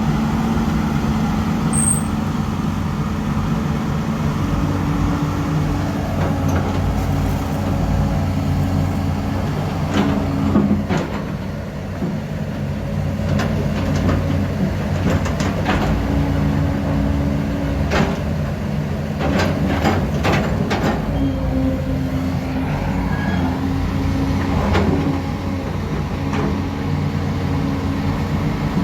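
Heavy diesel earthmoving machinery running steadily, with scattered sharp knocks and clanks, several in quick clusters through the middle.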